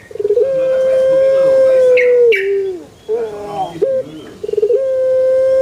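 A male barbary dove (burung puter) cooing twice. Each call is a quick stutter of short notes leading into one long, steady coo of about two seconds that drops in pitch at the end.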